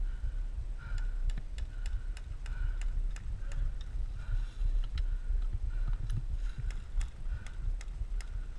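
Airsoft guns firing: scattered sharp clicks and snaps, some in quick runs. Underneath is a steady low rumble and a soft blip repeating about twice a second.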